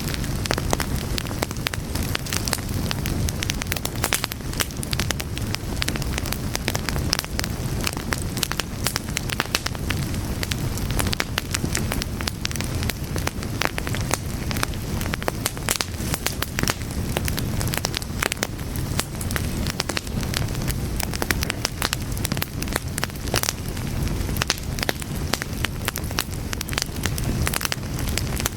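Fire crackling steadily: many small sharp pops and snaps over a continuous low rumble of flames.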